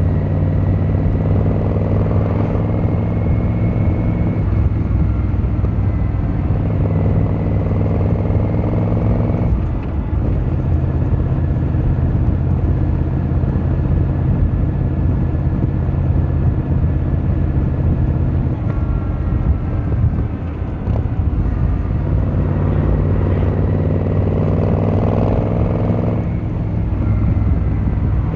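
Yamaha XVZ1300 Royal Star's V4 engine and exhaust under way. The revs rise twice in the first ten seconds, then hold steady, dip briefly about twenty seconds in, and climb again before dropping off near the end.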